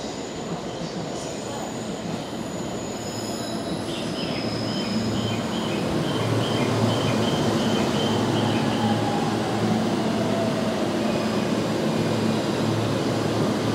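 JR East E531 series electric commuter train pulling into the platform and braking to a stop, its running noise growing louder as it comes alongside. A row of short high wheel squeaks, about two a second, runs through the middle, and near the end the electric motor whine falls in pitch as the train slows.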